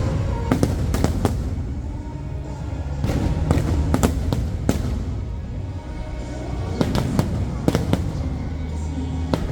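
Fireworks bursting in clusters of sharp bangs and crackles, about a dozen reports, over music playing from loudspeakers.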